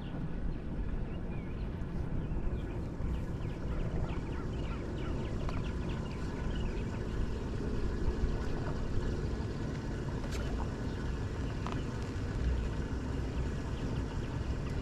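Small birds chirping over and over, short quick calls, above a steady low rumble.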